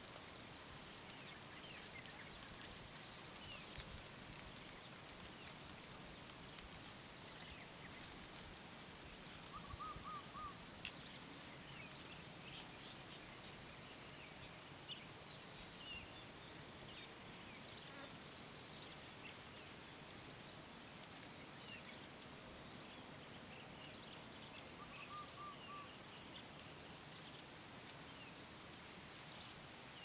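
Faint outdoor background hiss with scattered bird chirps, including a short run of quick repeated notes about ten seconds in and again about twenty-five seconds in.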